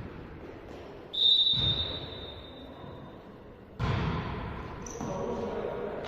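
Referee's whistle blown once in a sports hall: a single high, steady blast with a long, echoing fade. About four seconds in comes a sudden burst of thuds and hall noise.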